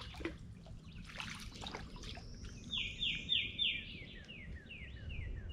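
A songbird singing a rapid series of about ten down-slurred notes that weaken toward the end, starting about halfway through. Before it, scattered short clicks over a steady low background noise.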